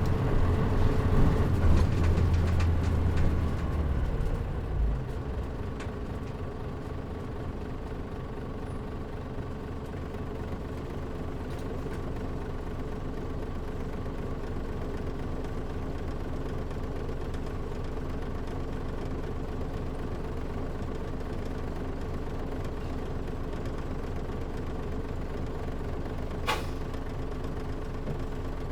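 Diesel engine of a Mitsubishi Fuso KL-MP37JM city bus, heard from inside the cabin. It runs loud and low for the first few seconds, then settles to a steady, quieter idle. A short sharp click comes near the end.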